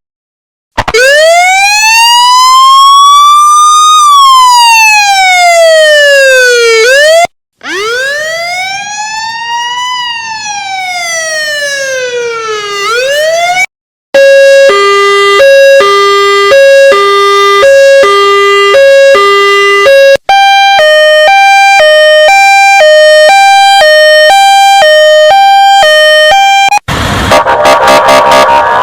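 A run of emergency vehicle siren sounds, one after another with short gaps: two slow wails, each rising and then falling over about six seconds, then a two-tone hi-lo siren alternating about once a second, then a higher two-tone siren alternating about twice as fast. A harsher, noisier sound starts near the end.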